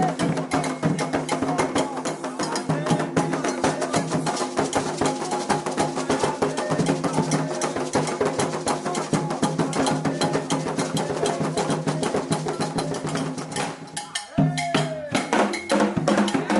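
Candomblé ritual music: atabaque hand drums played fast with a metal agogô bell keeping time, under a group singing. There is a short drop about fourteen seconds in before it picks up again.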